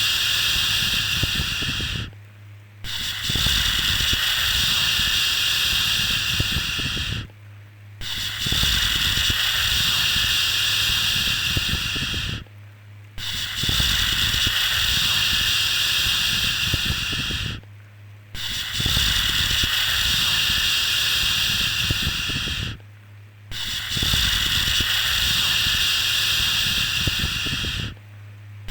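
Long 'shhh' shushing sound for soothing a baby, repeated in a steady cycle: each shush lasts about four and a half seconds, then a brief pause of under a second before the next. A faint steady low hum runs underneath.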